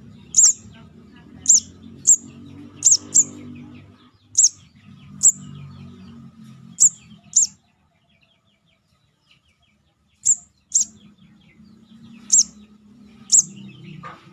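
Lure-call recording of a juvenile sogon: short, sharp, high chirps, each a quick downward flick, repeated irregularly about every half second to second, with a pause of a couple of seconds in the middle. A faint low murmur runs underneath.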